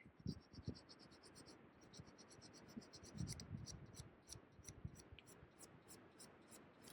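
Faint scratching and a long run of quick, sharp, high ticks as a campfire is being lit. The ticks come rapidly at first and slow toward the end, with a few soft thumps near the start and about three seconds in.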